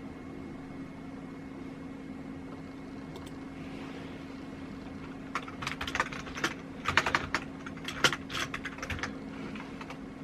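Typing on a computer keyboard: a run of quick key clicks lasting about four seconds in the second half, over a steady low hum.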